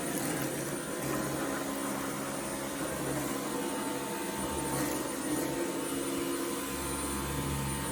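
Dyson V11 Absolute cordless stick vacuum running with its turbo brush head fitted: a steady motor whine over the rush of air.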